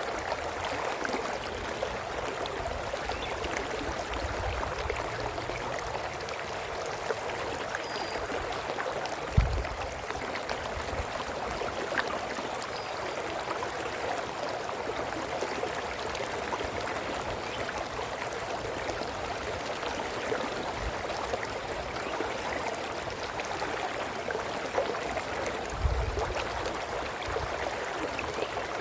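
A brook babbling steadily. Two brief low thumps break in, about nine seconds in and again near the end.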